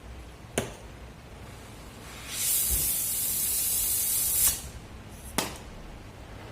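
Compressed-air spray gun hissing in one burst of about two seconds, with a sharp click shortly before it and another a second after it stops.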